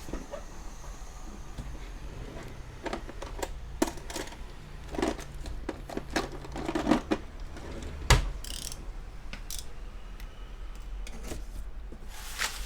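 Irregular small clicks and taps of objects being handled on a workbench, with one sharp knock about eight seconds in, over a low steady hum.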